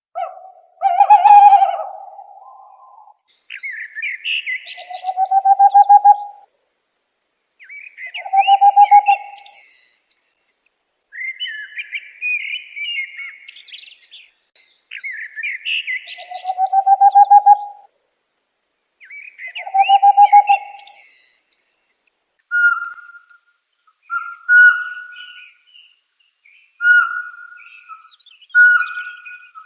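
Bird calling in repeated phrases, roughly every four seconds: each phrase is a low pulsed trill that rises slightly, mixed with higher chirps. In the last third these give way to a run of short, even notes at a single higher pitch.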